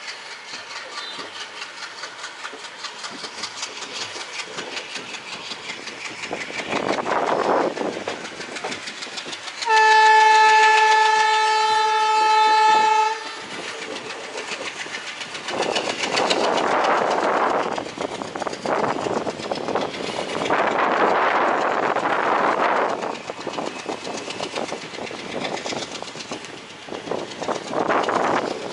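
Passenger train running with a steady rhythmic clatter of wheels over the rail joints. About ten seconds in, a diesel locomotive horn sounds one steady blast of about three and a half seconds, the loudest sound here. Rushes of noise come and go in the second half.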